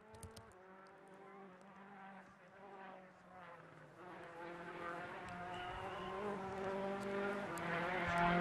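Rally car engine buzzing in the distance, growing steadily louder as it approaches.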